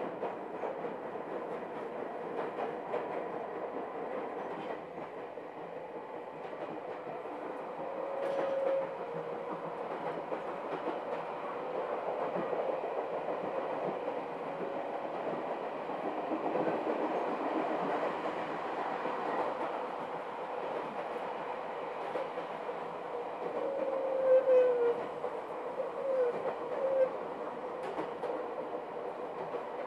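Chichibu Railway 7800 series two-car electric train running: a steady rumble of wheels on rail with clickety-clack over the rail joints and a steady hum. Brief squeals come about 8 seconds in and again several times near the end.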